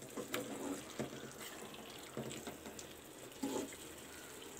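Chicken pieces sizzling in an onion-tomato masala in a pan while a spatula stirs them, with a few light scrapes and clicks of the spatula.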